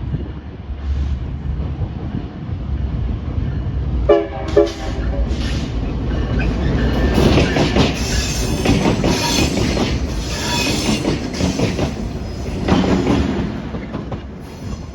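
A short train passing close by: a low locomotive rumble, two brief horn toots about four seconds in, then the cars rolling past with wheel squeal and rail clatter for several seconds before it fades.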